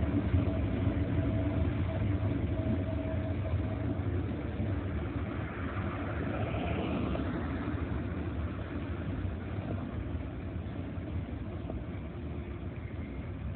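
Low, steady rumble of a freight train hauled by an EH500 'Kintaro' electric locomotive pulling away, slowly fading. A faint steady hum from the train dies out about four seconds in.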